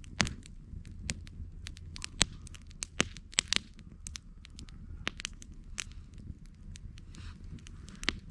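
Campfire burning, crackling with irregular sharp pops and snaps over a low steady rumble.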